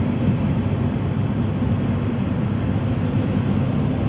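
Steady road and engine noise inside a moving car's cabin: a low, even rumble of tyres and engine.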